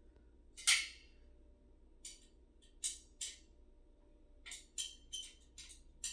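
Small metal desk hardware clicking and clinking as it is handled and fitted while a flat-pack computer desk is put together: about a dozen short, irregular taps, a few with a brief metallic ring, the loudest just under a second in and several close together near the end.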